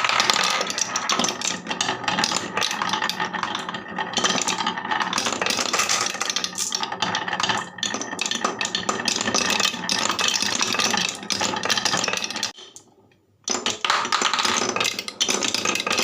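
Marbles rattling and clicking down a wooden HABA marble run in a dense, continuous clatter, broken by a silence of about a second near the end.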